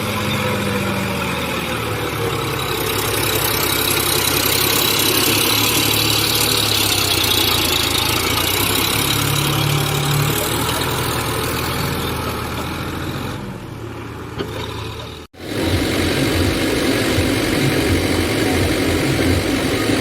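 Tractor diesel engines running under load. About three-quarters of the way through the sound cuts off abruptly and resumes as a different, more throbbing engine note.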